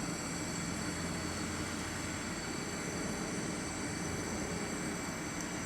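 Class 390 Pendolino electric train running past, a steady even rushing noise with a faint low hum.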